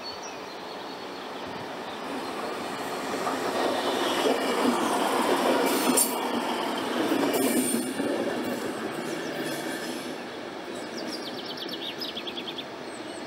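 A train passing on the track. It builds up over a couple of seconds, is loudest near the middle with a few sharp clicks from the wheels, then fades away.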